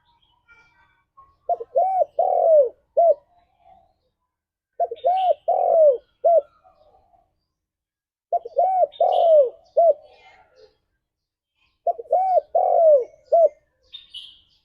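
Spotted dove cooing the same phrase four times, about every three and a half seconds. Each phrase is a few short coos around one longer drawn-out note. Faint higher chirps come between the phrases.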